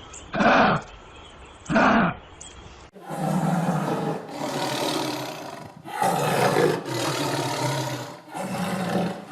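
Big cat roaring: two short, loud calls falling in pitch, then, after a cut, three longer, rough roars of two to three seconds each.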